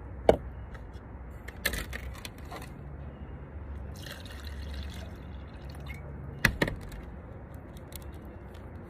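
Handling noises: a few sharp knocks and clatters, the loudest just after the start and a pair near the end, with a short rustling scrape in the middle.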